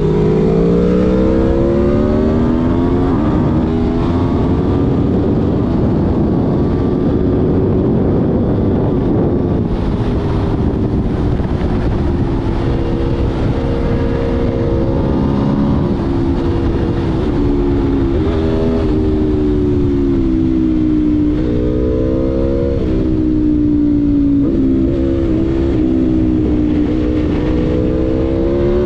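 Aprilia Tuono V4 1100's V4 engine running hard under way, its pitch climbing and easing with the throttle, with several quick dips in pitch in the second half, over a steady rushing noise.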